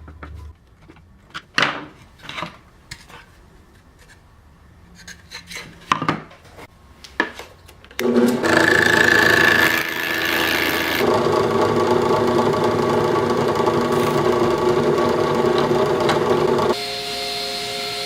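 Scattered knocks and clicks of wood being handled, then a power tool starts about eight seconds in and runs steadily on wood, its pitch changing to a quieter hum near the end.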